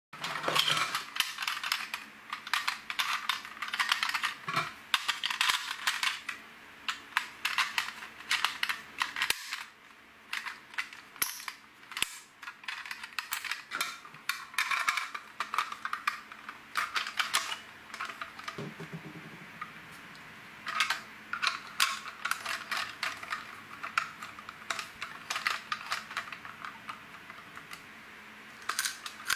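Small plastic LEGO pieces clicking and rattling as they are handled and picked through, in quick irregular clusters with short pauses.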